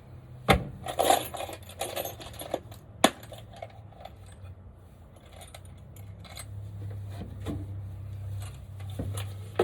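Small metal hardware clinking and clattering as it is handled, with a few sharp knocks.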